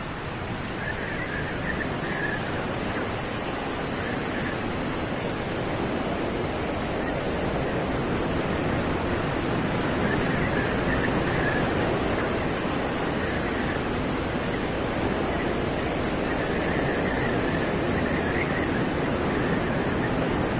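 Steady rushing noise of wind and city traffic in a snowstorm, with faint high tones now and then.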